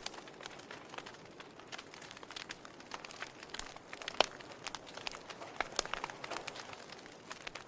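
Wood fire burning in a fireplace, crackling with irregular sharp pops and snaps over a soft hiss, one louder pop about four seconds in.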